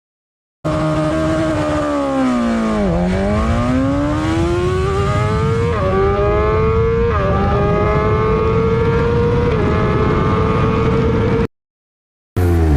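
Superbike engine and exhaust running: the engine note drops, then climbs steadily with a couple of small jumps in pitch, like gear changes, and settles at a fairly steady high note. It cuts off abruptly near the end, and a second engine clip starts after a short gap.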